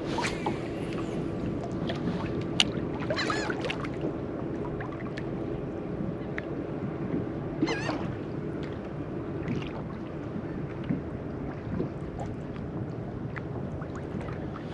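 Seabirds working the water give a few short, high, wavering calls, about three seconds and eight seconds in, over a steady low hum and water noise around the kayak.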